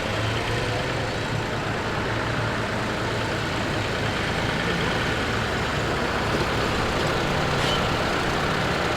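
A vehicle engine running steadily, with an even low rhythmic pulse.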